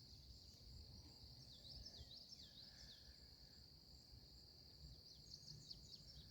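Faint outdoor nature sounds: a steady high-pitched insect drone, like crickets, runs throughout. A bird chirps in quick high sweeping notes in a cluster about two seconds in and again near the end, over a low rumble.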